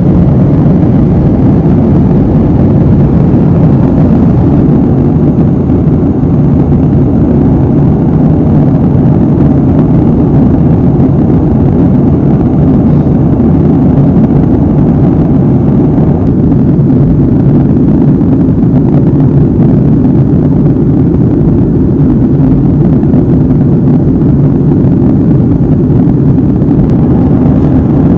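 Airliner cabin noise from a window seat in flight: a steady, low-pitched rush of engine and cabin noise, with a faint high whine above it.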